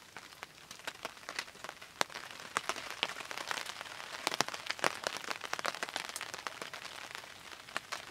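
Rain falling steadily, with irregular sharp drop hits close by, several a second.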